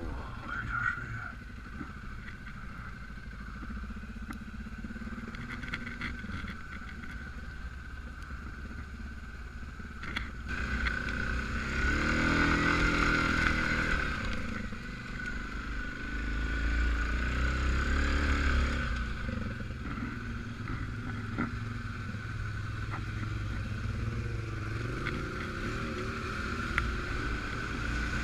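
ATV engine running as the quad rides along, revving up twice, about 12 seconds in and again around 16 to 18 seconds, with a steady high whine underneath.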